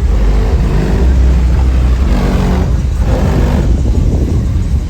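A car engine running with a deep rumble, its revs falling and rising again in the middle.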